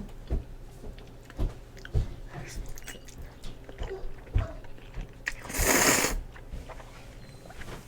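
Close-miked chewing and mouth sounds of someone eating cheesy noodles, with scattered soft low knocks. A short breathy rush of noise comes a little past the middle.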